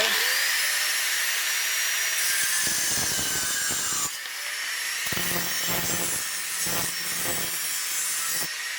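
Excess end of a fastening, likely the tightened worktop connector bolt, being cut off: a steady rasping cut with a faint high ringing tone, turning into back-and-forth strokes at about three a second from roughly five seconds in.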